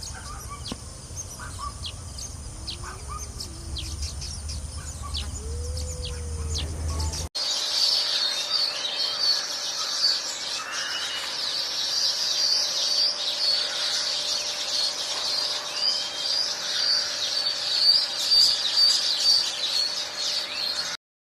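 Weaverbirds chirping. The first part has scattered short chirps over a low hum. After an abrupt cut about seven seconds in, many birds chatter densely and continuously, with a few lower slurred calls among them.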